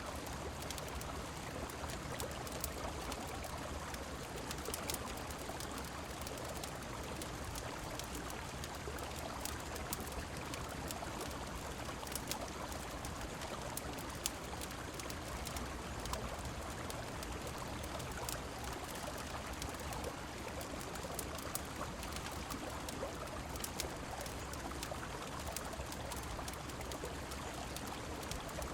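Steady rushing of a river mixed with rain, with scattered sharp crackles from a wood fire.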